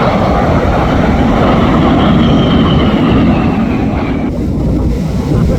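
Jet aircraft flying past, a loud engine roar with a faint whine that drops in pitch as it goes by.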